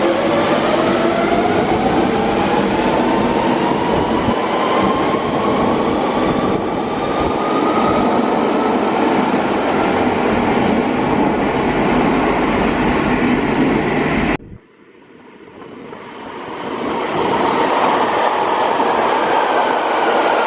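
London Underground 1992 Stock train's traction motors whining, rising steadily in pitch as the train accelerates, over the rumble and clatter of its wheels. The sound cuts off suddenly about fourteen seconds in. The rumble of another 1992 Stock train then builds up, its motor whine falling in pitch as it slows.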